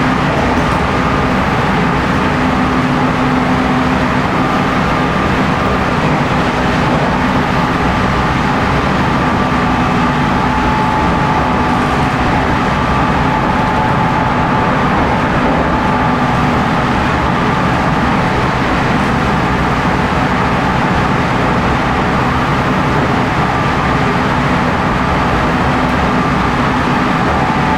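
JR East 719 series 5000-subseries electric train running at speed, its MT61 traction motors (6.07 gear ratio) giving a steady whine over loud, even rolling noise.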